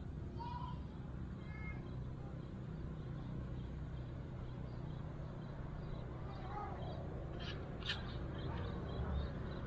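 Outdoor ambience: a steady low rumble with a few short bird calls, and a single sharp click about eight seconds in.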